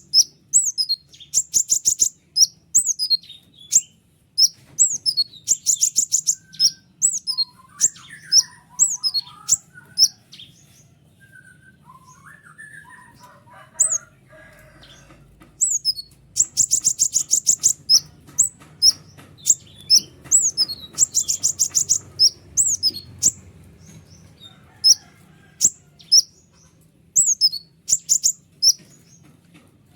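Konin songbird singing: a string of sharp, high, quickly falling chirps broken by several fast, buzzy trills. Through a quieter middle stretch only softer, lower twitters are heard, then the loud chirps and trills resume.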